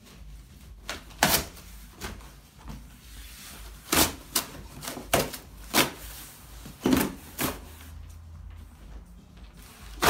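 An outer cardboard shipping box being pulled apart by hand: a series of sharp snaps and knocks at uneven intervals.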